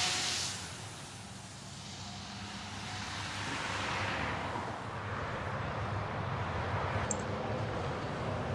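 Trucks driving past on a road, with a low engine rumble and tyre rush. One passing vehicle fades away in the first second, and another comes up and passes about four seconds in.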